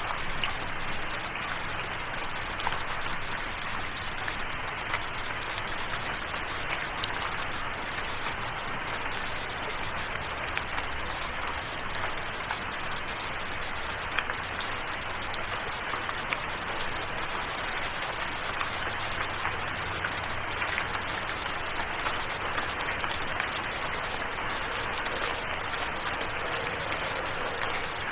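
Steady rain falling, with individual drops ticking throughout.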